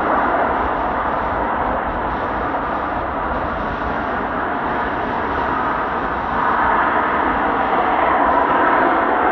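Steady jet engine noise from the Blue Impulse Kawasaki T-4 trainers on the airfield, swelling slightly about two thirds of the way through. Strong wind buffets the microphone underneath.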